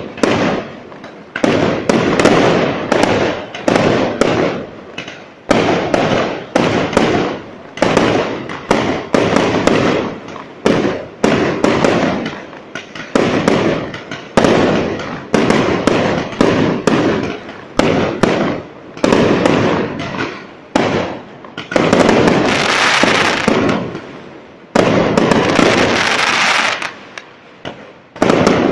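Fireworks display: a rapid, continuous run of loud bangs, each one trailing off, sometimes several within a second. About three-quarters of the way through come longer spells of dense crackling.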